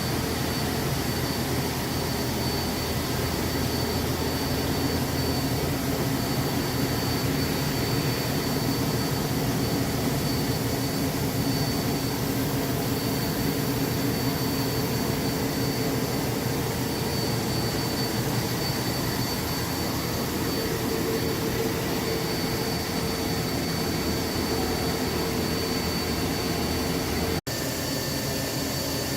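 CNC lathe running steadily while machining a spur pinion shaft: a constant machine drone with a steady high whine. The sound drops out for a moment near the end, then carries on slightly changed.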